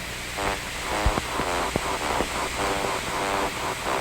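Steam locomotive puffing away in a steady rhythm of chuffs, about two or three a second, with a dull knock about a second in and constant film hiss underneath.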